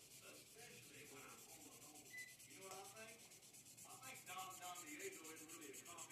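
Faint scratching and rubbing of a pencil on paper, drawn in quick strokes.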